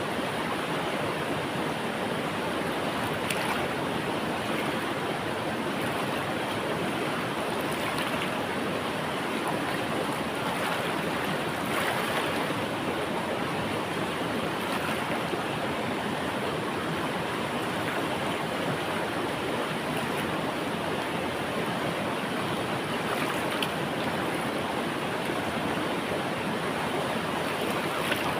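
River water flowing steadily, a continuous rushing with small splashes now and then.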